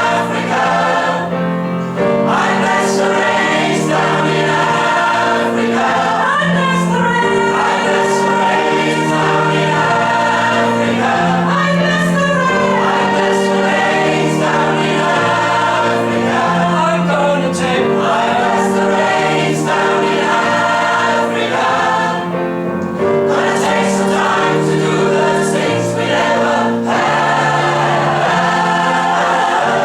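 A choir singing in full harmony, loud and steady, with the low voices holding long notes that change every second or two under moving upper parts.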